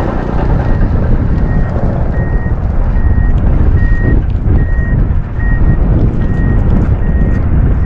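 Strong wind buffeting the microphone with a dense low rumble, while a vehicle's reversing alarm beeps steadily, one short high beep about every 0.8 seconds.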